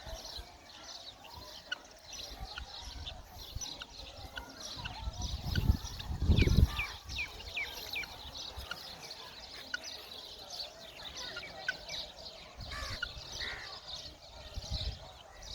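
Chukar partridges chirping, with many short, quick, high chirps throughout that are densest about halfway through. A loud low rumble around the middle, likely from handling or wind on the microphone.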